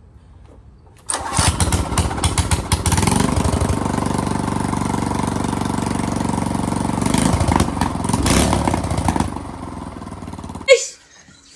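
Minibike's small engine starting about a second in and running, revved up a few times through its loud exhaust, then settling lower and cutting off abruptly near the end.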